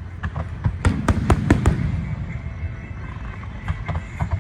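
Fireworks exploding: a quick run of sharp bangs in the first two seconds, a few more near the end, over a steady low rumble.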